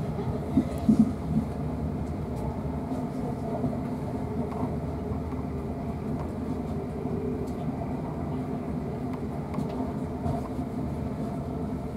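Inside a moving South Western Railway Class 450 Desiro electric multiple unit: the steady running rumble of the train at speed on the rails, with a few short knocks about a second in.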